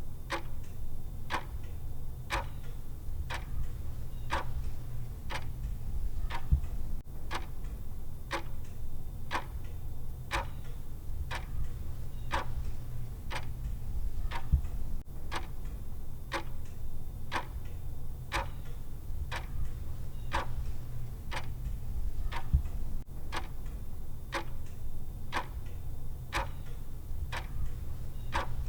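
Clock ticking at an even, steady pace: the countdown timer's tick sound, over a steady low hum.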